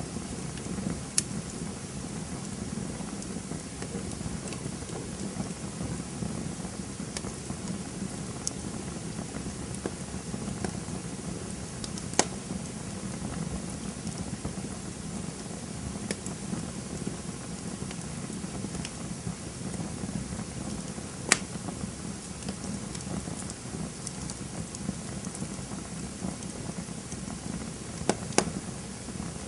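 Campfire crackling: a steady hiss and low rustle of burning wood, broken by occasional sharp pops, with two pops close together near the end.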